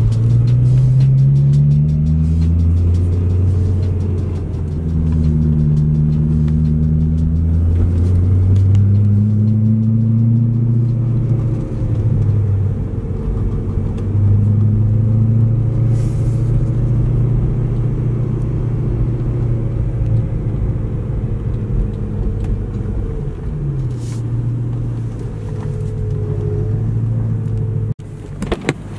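BMW E90 M3's V8 engine running under way, its pitch climbing and falling repeatedly as the revs rise and drop. The sound cuts off abruptly near the end.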